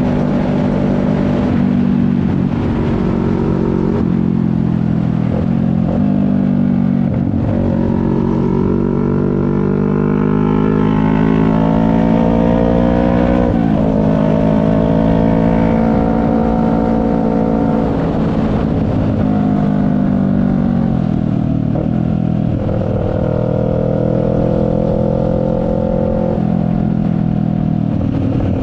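CFMoto 400NK's parallel-twin engine pulling through the gears under a rider's chin-mounted camera, with wind noise. The pitch climbs as the bike accelerates and drops suddenly at each upshift, clearly about halfway through, with steady stretches of cruising in between.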